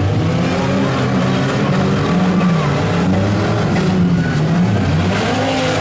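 Demolition derby vans, trucks and SUVs with their engines running and revving, the pitch rising and falling again and again.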